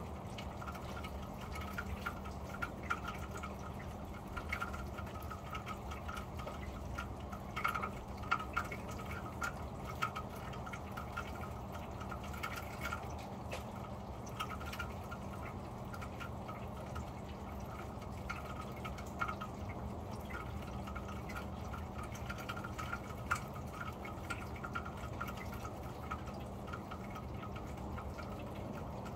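Rain falling on a corrugated metal roof, heard from beneath: a steady patter with irregular louder drops ticking on the sheet metal.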